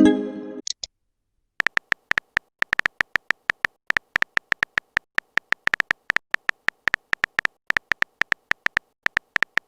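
A text-typing sound effect: a rapid, uneven run of short beep-clicks, each key press a short tick with a tone in it, starting about a second and a half in. Just before that, a brief chime sounds at the very start.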